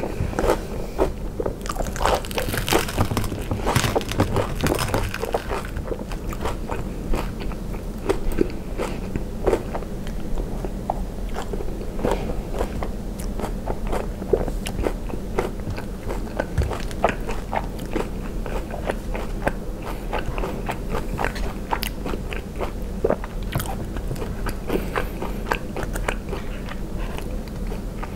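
Close-miked eating of fried ice cream with Nutella and whipped cream: crunching through the crisp fried coating, then wet chewing of the soft ice cream and cream, with irregular crackles and mouth clicks, busiest in the first few seconds.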